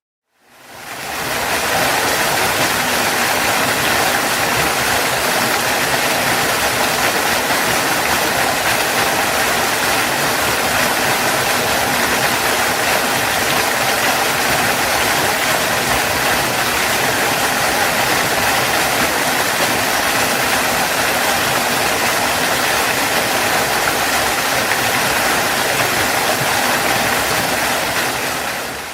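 Waterfall: falling water making a steady, loud rush. It fades in over the first second or two and fades out near the end.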